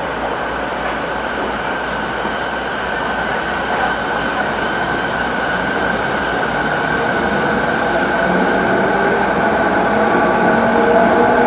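E217 series electric train running, its Mitsubishi IGBT-VVVF inverter drive giving a steady whine over the rail noise. Several motor tones rise in pitch near the end as the sound grows gradually louder.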